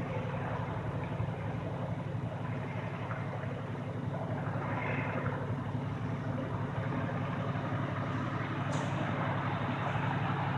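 A steady low mechanical drone with a fast, even pulse, with a faint brief higher sound about halfway through.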